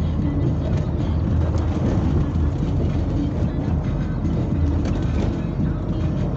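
Vehicle driving along the road: a steady low rumble that holds evenly throughout.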